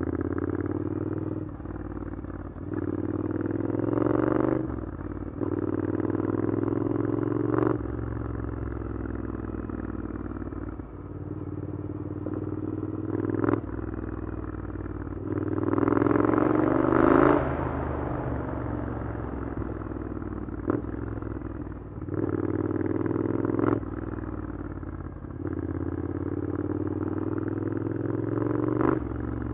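Triumph Scrambler 900 parallel-twin with an Arrow exhaust accelerating through city traffic. The revs climb and drop back about six times as it pulls through the gears, with a short sharp crack at most of the drops.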